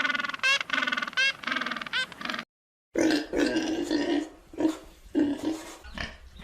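A bleating animal call with a quavering pitch that cuts off about two and a half seconds in; after a brief silence, a pig grunting in short, repeated grunts.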